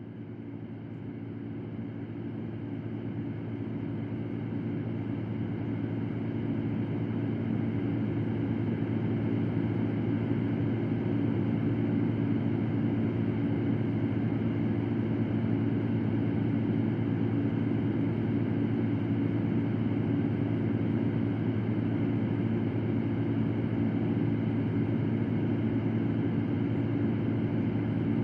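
Electric fan running with a steady low hum and an even airy whoosh. It swells up gradually over the first several seconds, then holds steady.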